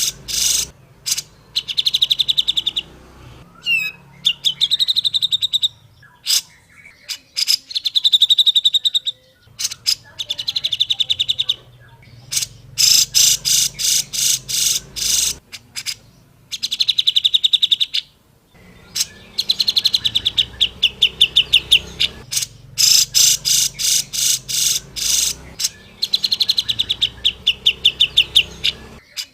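Cucak jenggot (grey-cheeked bulbul) singing in fast chattering runs of rapidly repeated notes, each run lasting one to three seconds, with short pauses between.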